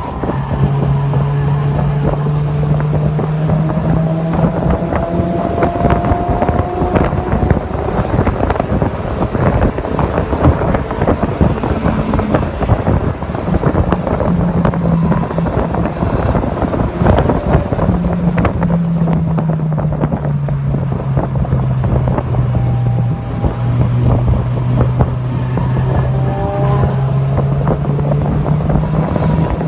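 Mazda MX-5 Miata (NC) four-cylinder engine running hard on track under heavy wind buffeting on the microphone. The engine note climbs in the first few seconds, then shifts and drops lower in the second half.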